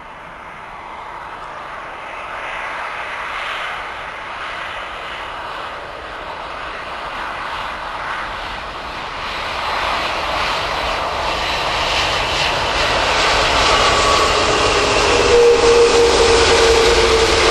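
Airbus A330 twin-engine jet airliner on approach to land, its engine noise growing steadily louder as it comes closer. A whining tone comes in near the end and sinks slightly in pitch.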